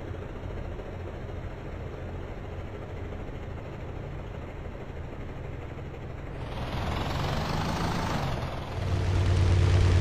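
Tractor engine running with a steady low hum. About six seconds in, a rushing hiss swells up and fades away, and near the end the engine grows louder.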